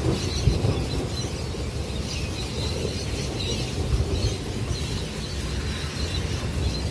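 Heavy gusty storm wind buffeting the microphone, a choppy low rumble with small gust peaks over a steady higher hiss.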